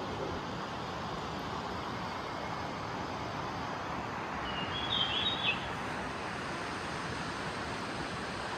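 Steady rush of flowing creek water, with one short chirping bird call about five seconds in.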